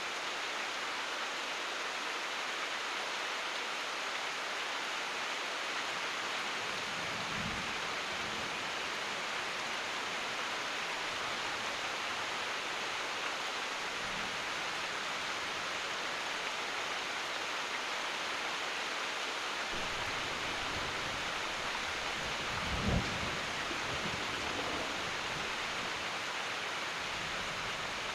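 Steady rain falling, an even continuous hiss. Low rumbles of thunder come through it: two brief ones in the first half and a longer roll in the second half, loudest near its middle.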